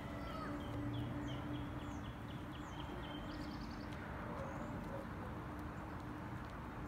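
A bird chirping: a quick series of short, falling chirps, then a fast trill about three seconds in, over a steady low hum.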